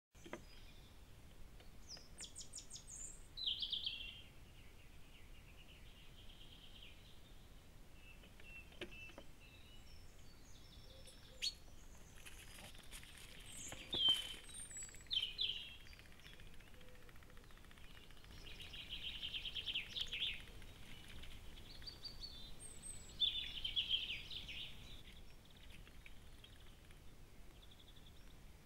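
Garden birds singing and calling, several separate phrases of chirps and short trills over a faint steady hiss, with one sharp click about eleven seconds in.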